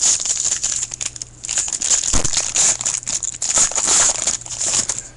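Foil wrapper of a trading-card pack, 2013 Panini Pinnacle Baseball, crinkling irregularly as it is handled.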